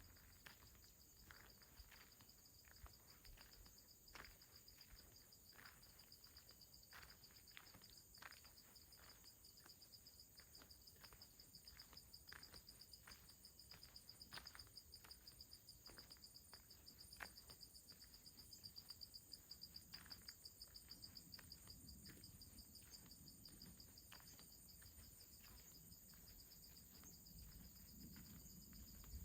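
Faint, steady high-pitched insect trilling, typical of crickets, with soft footsteps about once or twice a second along a path.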